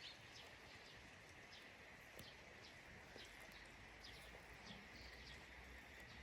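Faint birds chirping, short falling chirps repeating every fraction of a second over a steady faint high hiss of outdoor ambience.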